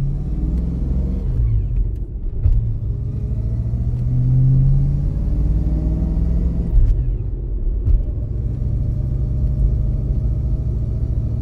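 Fox-body Mustang engine running under light throttle at around two thousand rpm, heard from the car while driving, during a manual-transmission gear change made without the IAC 1D table. About seven seconds in there is a click and the engine note drops off as the revs fall.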